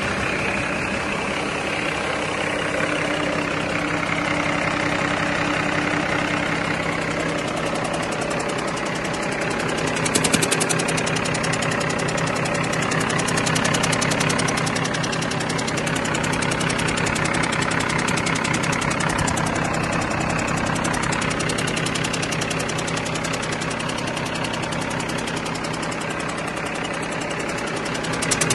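2008 Cummins ISX (CM871, 400 hp) inline-six diesel truck engine running steadily at idle on a test run, briefly a little louder about ten seconds in.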